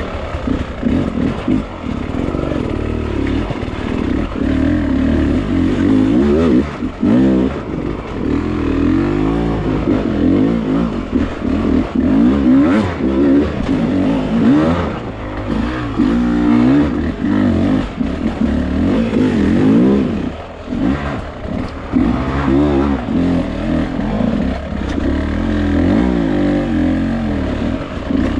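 Beta enduro dirt bike engine revving up and down continually under the rider's throttle as it climbs over loose, rocky ground, the pitch rising and falling every second or two, with brief drops where the throttle is rolled off.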